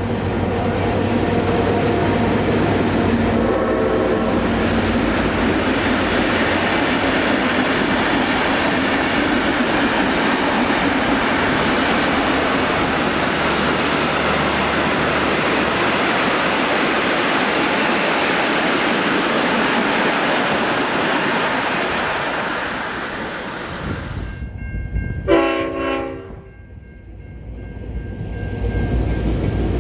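Pair of vintage diesel locomotives passing at speed, a loud, steady mix of engine noise and wheels on the rails for about twenty seconds, with a short horn note a few seconds in. A few seconds after the train passes, a brief, sharp blast from X31's five-chime Leslie RS5T air horn is the loudest sound.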